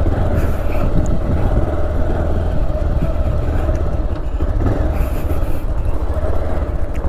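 Motorcycle engine running steadily while riding on a rough gravel road.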